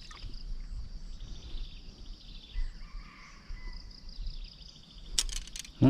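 Insects chirring outdoors in a steady, high, finely pulsing drone, with a faint steady tone for about a second in the middle and a few sharp clicks near the end.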